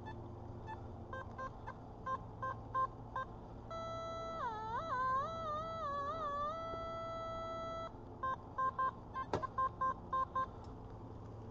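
Metal detector giving target tones over a buried find: a run of short, same-pitched beeps, then a held tone that wavers up and down in pitch for about four seconds, then more quick beeps. There is a single sharp click about nine seconds in.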